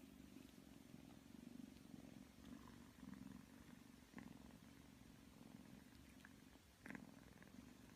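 A kitten purring, a faint, steady, low pulsing purr, with a couple of soft clicks, the clearest about seven seconds in.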